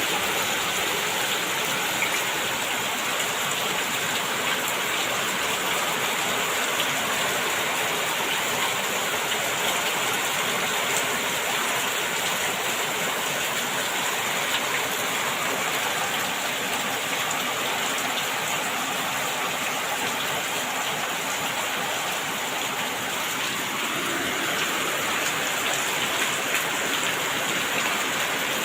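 Heavy rain falling steadily, a dense even hiss of water with the odd sharper drop hit.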